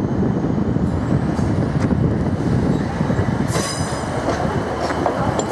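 Class 153 diesel multiple unit rolling slowly into the platform with a steady low rumble from its engine and wheels, and a high-pitched squeal from the running gear starting about three and a half seconds in.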